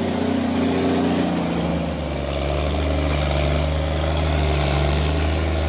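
Kenworth W900's Cummins ISX15 diesel engine labouring under heavy load, a steady low drone that deepens about a second and a half in.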